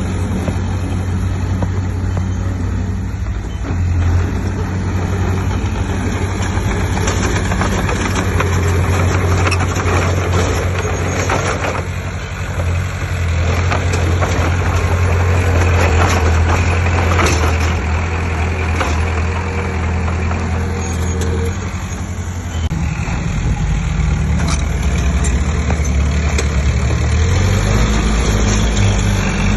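Heavy diesel engine of earthmoving machinery running steadily, with scattered clanking and rattling. The engine note shifts a little over two-thirds of the way through.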